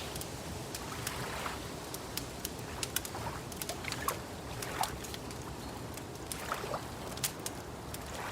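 Wood fire crackling, with sharp irregular pops and snaps over a steady low wash of ambience. A few short bird calls sound faintly in the background.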